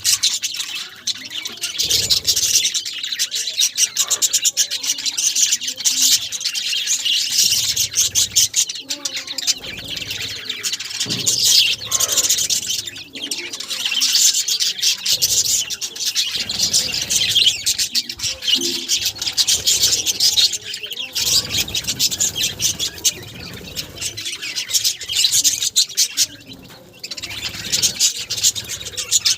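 Many budgerigars chattering together, a continuous stream of rapid, high chirps and warbles.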